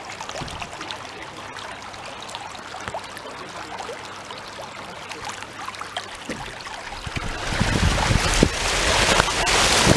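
Steady rushing of water, then from about seven seconds in gusts of typhoon wind buffet the microphone with a louder, low rumbling noise.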